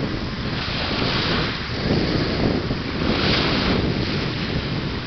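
Wind blowing across the microphone: a rushing noise that swells and eases every second or so.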